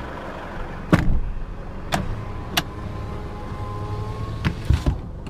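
Isuzu D-Max 2.5-litre twin-turbo diesel idling with a steady low hum, overlaid by several sharp clicks: one each about one, two and two and a half seconds in, and a quick cluster near the end.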